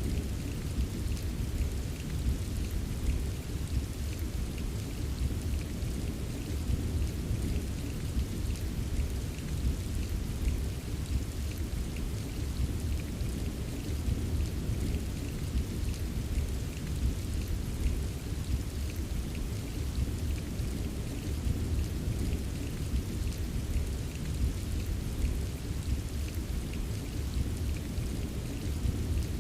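Steady rain: an even hiss over a deep, continuous rumble, with many fine drop ticks.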